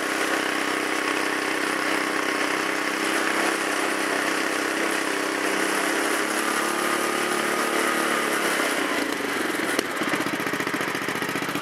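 The lawn tractor's 7 hp Briggs & Stratton single-cylinder engine running steadily, then slowing to a low, loping idle about nine seconds in, with a sharp click just before ten seconds.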